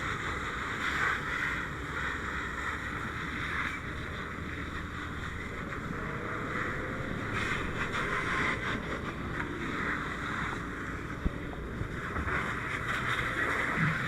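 Steady rushing hiss of a fire hose stream spraying water, swelling and easing, over the low rumble of an engine running. A single sharp click about eleven seconds in.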